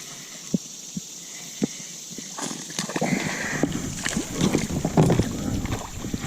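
A few scattered knocks, then a busy stretch of clatter and splashing from about two and a half seconds in, as a hooked bass is fought up to a kayak and landed.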